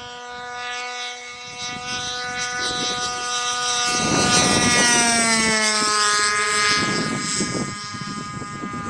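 Radio-controlled model airplane flying overhead, its engine and propeller giving a steady high whine that swells about four seconds in and then slides down in pitch, with a rushing noise alongside.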